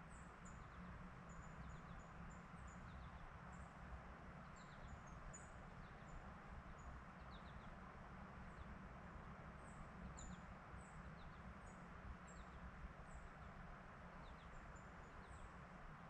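Faint woodland ambience: small birds giving many short, high chips and twitters scattered throughout, over a steady low background hiss and rumble.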